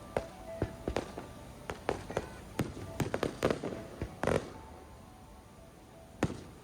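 Aerial fireworks bursting in a rapid run of sharp bangs for about four seconds, the loudest about four seconds in, then thinning out to a single bang near the end.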